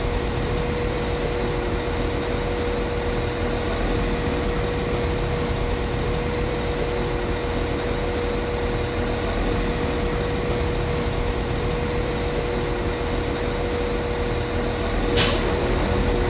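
Class 195 CAF Civity diesel multiple unit's underfloor diesel engine idling steadily, a constant drone with a steady hum on top. A single short sharp click or knock about a second before the end.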